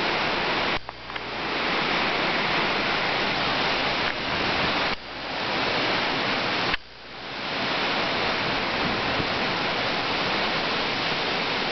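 Storm wind rushing through trees and buffeting the microphone as one steady noise. It drops off suddenly about a second in, around five seconds in and again near seven seconds, then builds back with the next gust each time.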